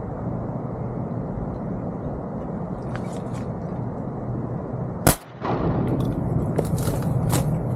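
A single shotgun shot about five seconds in, over a steady low motor hum, followed by a few sharp clicks.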